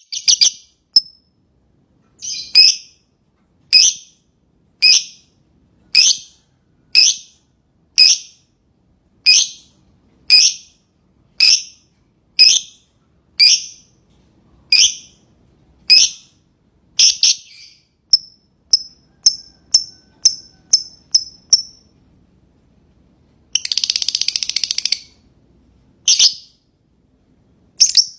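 Lovebird giving loud, shrill single calls about once a second, then quicker, shorter chirps. Partway through comes a rapid chattering trill of about a second and a half, the lovebird's 'ngekek' chatter, before the single calls resume.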